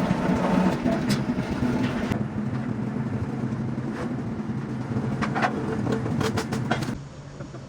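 An engine running steadily, with scattered sharp knocks over it; the sound drops away abruptly near the end.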